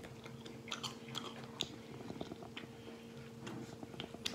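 A person chewing and gnawing braised duck wings held in the hands, with irregular small clicks and wet smacks of mouth and teeth on the meat and bone.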